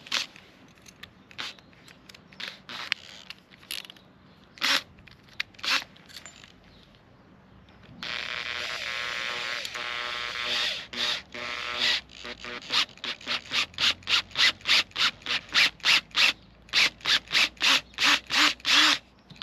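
Metal being worked with hand tools: scattered clicks and scrapes at first, then about four seconds of steady scraping noise, then quick regular back-and-forth strokes, two to three a second.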